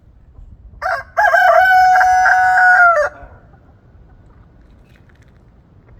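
Rooster crowing once: a short opening note about a second in, then a long held note of nearly two seconds that drops slightly in pitch as it ends.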